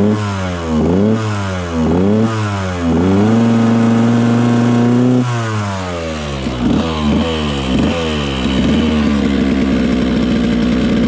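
Dirt bike engine being warmed up, revved in quick throttle blips about once a second, held at high revs for about two seconds near the middle, then dropping back to a wavering idle with further blips.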